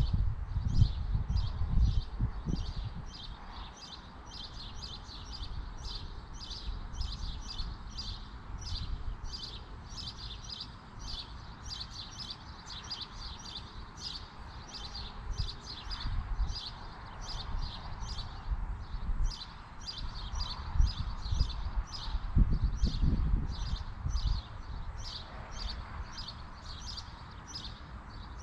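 A small bird chirping over and over, a steady run of short high chirps about two to three a second. Low rumbles of wind buffet the microphone at the start and again about 22 seconds in, louder than the chirps.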